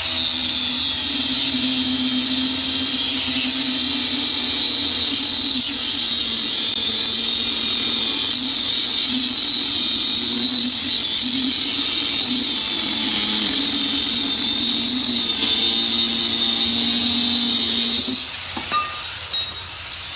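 Angle grinder with a cutoff wheel cutting through a steel coil spring to shorten it by one coil: a loud, steady high whine with grinding for about eighteen seconds. Near the end it is switched off and the wheel winds down with a falling whine.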